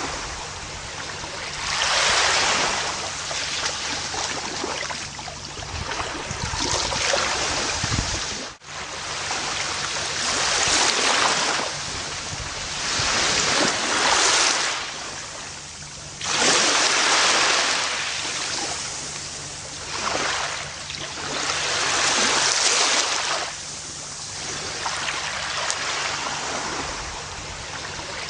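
Gentle ocean waves on a beach: swells of surf rise and wash back every few seconds. There is one brief, abrupt dropout about a third of the way in.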